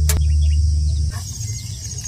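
A loud, steady low rumble that cuts off about a second in, over a constant high buzz of insects, with a couple of sharp clicks at the very start.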